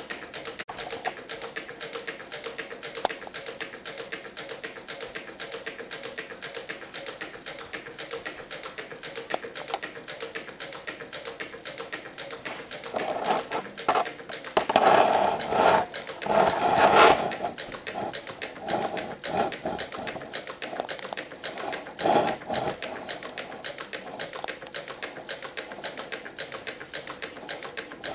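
Meccano-built model Stirling engine running, its crank, linkages and output gears making a rapid, even clatter. From about halfway through, louder irregular sounds come and go over the clatter for several seconds.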